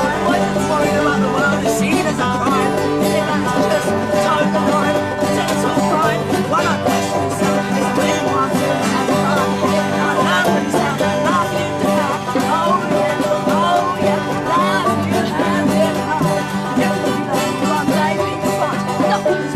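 Live acoustic band playing a driving one-chord jam: banjo and guitars strumming and picking fast over a steady low drone.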